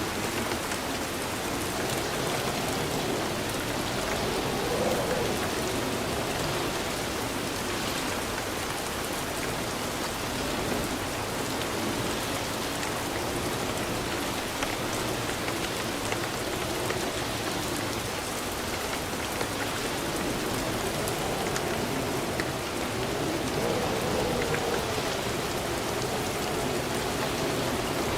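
Steady heavy rainfall, an even wash of drops hitting a surface, with no thunder standing out.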